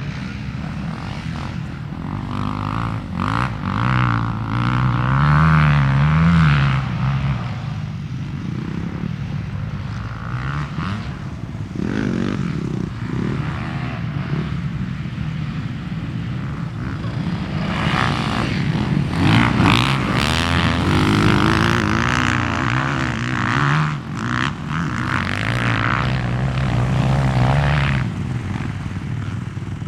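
Motocross dirt bike engine revving up and falling back again and again as it is ridden around the track. It is loudest in two long stretches of hard throttle.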